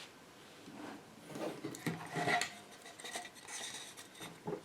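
Light scraping and tapping of small objects being handled: a handful of short, irregular scrapes and clicks, the loudest a little past two seconds in.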